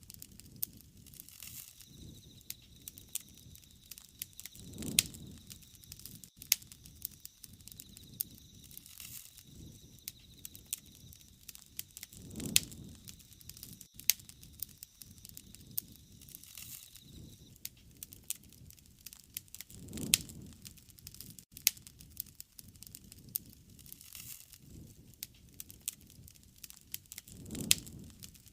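Wood fire crackling, with frequent sharp pops and snaps over a soft hiss of burning. A low rushing swell of the flames comes back about every seven and a half seconds.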